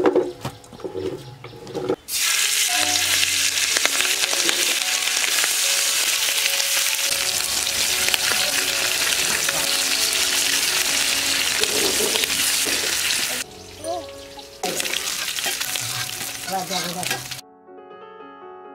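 Food frying in hot oil in a pan: a loud, steady sizzle that starts about two seconds in, breaks off for about a second near the middle, comes back, then cuts off suddenly near the end. Background music plays underneath.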